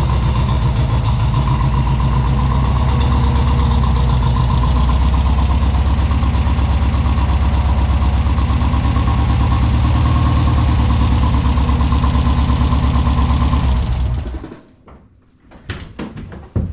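Air-cooled flat-four engine of a VW Beetle running steadily with its deck lid off, then switched off about fourteen seconds in. A few light knocks follow.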